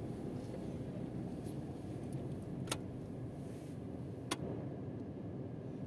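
Car engine running low and steady as the car creeps along a dirt track, heard from inside the cabin. Two sharp clicks come about a second and a half apart, near the middle.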